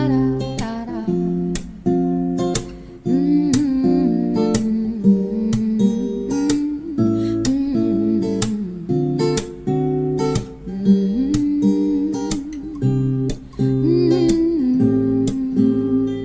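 Background music: an acoustic guitar strummed and picked in a steady rhythm, with no clear vocal line.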